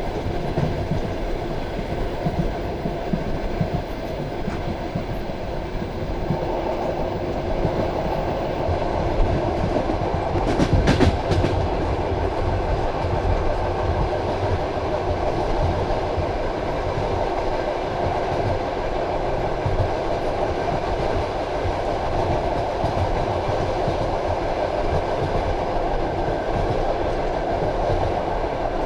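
Passenger train carriage running along the track, wheels rumbling steadily on the rails. The noise grows fuller about six seconds in, and a quick run of sharp clacks comes as the wheels pass over a rail joint about eleven seconds in.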